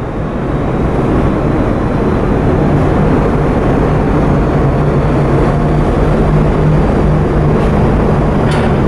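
Coastal cargo ship's main engine running steadily under way: a loud, even rumble with a steady low hum.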